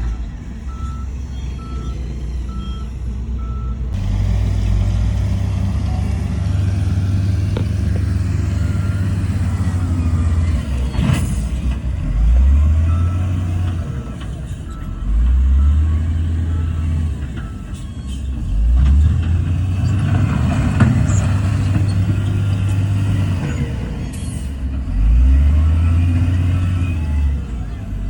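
Heavy diesel earthmoving machinery at work: a dump truck's reversing alarm beeps steadily for the first few seconds, then stops. The low diesel engine note rises and falls as it is revved about four times.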